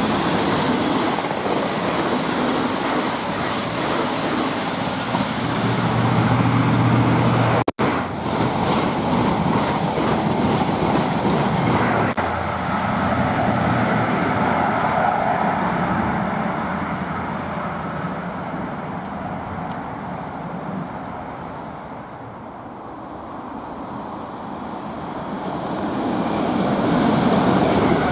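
Train running through a station: a steady rush of wheels on rail that cuts out for an instant about eight seconds in. It eases off two-thirds of the way through, then swells again as another train comes near the end.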